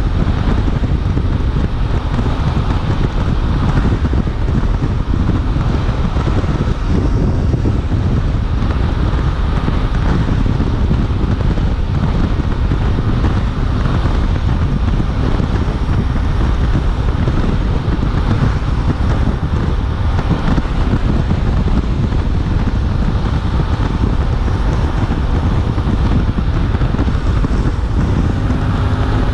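Steady wind buffeting on the microphone at riding speed, over the running of a Suzuki V-Strom 800DE's 776 cc parallel-twin engine.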